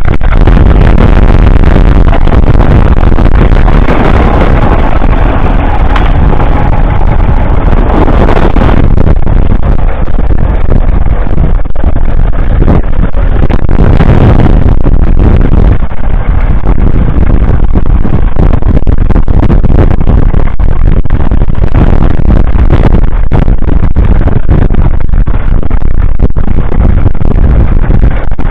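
1947 Fordson Model N's 4.4-litre four-cylinder petrol/TVO engine running steadily and loud, the tractor working with its trailed plough.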